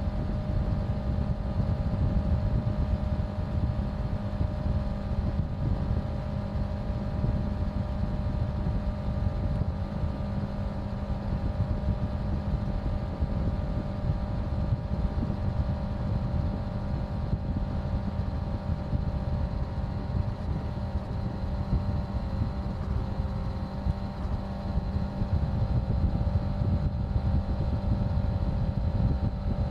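Honda CBR650F's inline-four engine running at a steady cruise, its pitch holding level, under a heavy low rumble of wind on the microphone.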